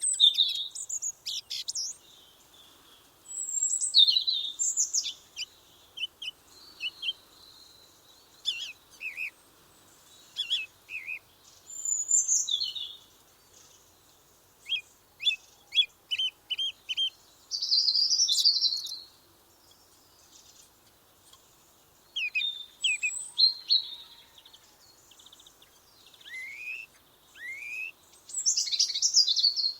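Small birds chirping and singing in short, high-pitched phrases with brief pauses between them. Midway there is a quick run of repeated short notes, and near the end a few falling whistles.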